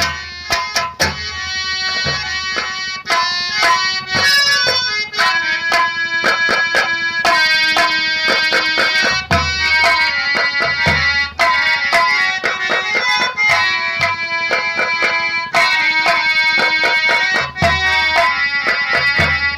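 Instrumental nautanki nagma: a harmonium plays a busy melody over hand drums, with a few deep drum strokes that drop in pitch.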